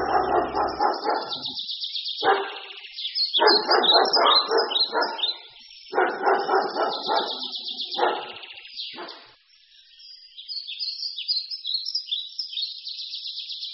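Birds calling: high chirping and twittering throughout, and in the first nine seconds several bursts of a lower, harsh, rapidly pulsed call, each lasting up to about two seconds.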